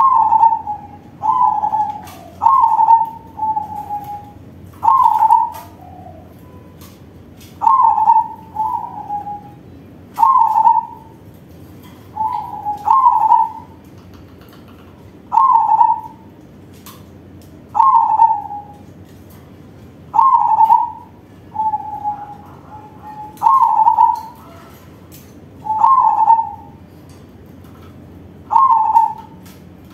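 Crossbred perkutut (zebra dove) singing its cooing song: short, slightly falling coo notes in phrases of two or three, a phrase every two to three seconds.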